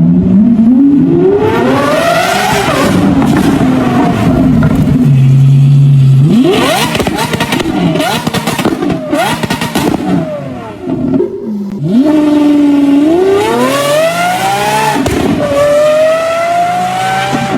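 Naturally aspirated V12 supercar engine revving and accelerating hard: the pitch climbs in long sweeps, drops at each upshift and climbs again. In the middle come several quick rev blips with a burst of crackling pops on the overrun.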